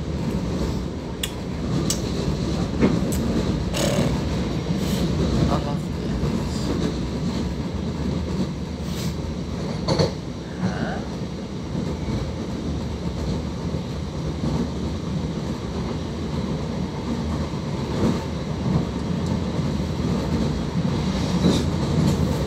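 Electric multiple-unit passenger train running at speed, heard from inside the carriage by the doors: a steady rumble of wheels on track with a few sharp clicks scattered through it.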